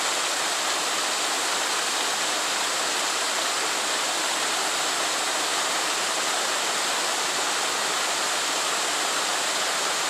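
Steady rush of flowing water, an even hiss without breaks or bird calls.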